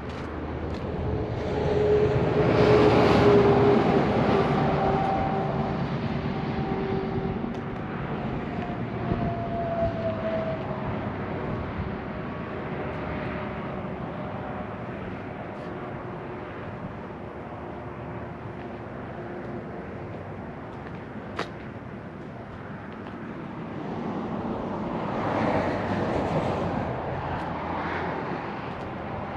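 A motor vehicle passing by, its hum swelling about three seconds in with a slight drop in pitch as it fades, and a second vehicle passing near the end.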